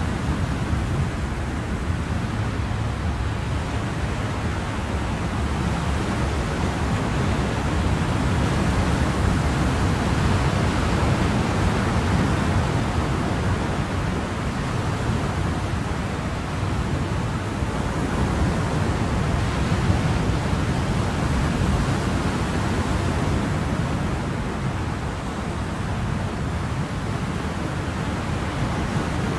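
Ocean waves breaking on a shore in a steady, continuous wash of surf, swelling and easing slowly.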